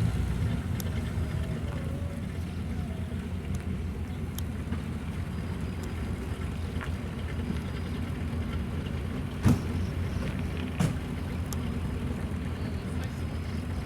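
American car's engine idling steadily with a deep, low sound. Two short sharp knocks come past the middle, a little over a second apart.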